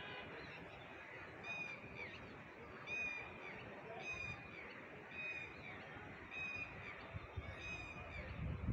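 A bird calling over and over, about six short, high calls each dropping in pitch at its end, spaced a little over a second apart.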